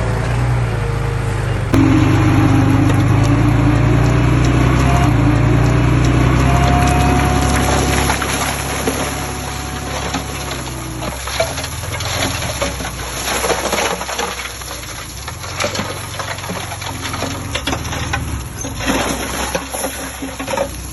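Heavy diesel construction machine running at a steady pitch. From about eight seconds in, a rushing, crackling noise of loose soil spilling joins it, and the engine drops back.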